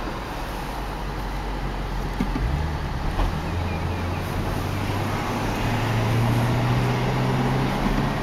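The Camaro SS's 6.2-litre LS3 V8 is heard from inside the cabin as it drives, with road noise. The engine note changes about two and a half seconds in, then rises and grows louder toward the end as the car accelerates.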